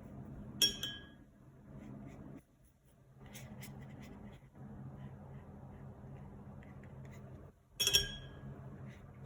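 Two sharp ringing clinks, about seven seconds apart, of a paintbrush knocking against a glass water jar, with faint brushing scratches between them over a low steady hum.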